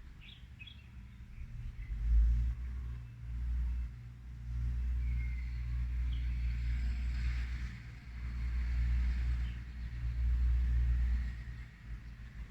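Wind buffeting the microphone as a low, uneven rumble that swells and fades, with a few faint chirps from small birds.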